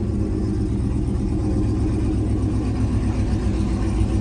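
Loud truck engine running steadily with a low, even exhaust drone.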